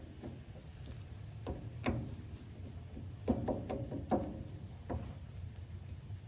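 Irregular light metallic knocks and clunks from hand work at the Power Wagon's rear differential pinion, where he has found a lot of play. They come singly and in quick runs over a steady low hum, with a faint short high chirp about once a second.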